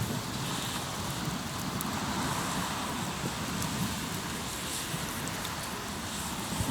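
Hardwood campfire crackling, with scattered small sharp pops over a steady rushing noise.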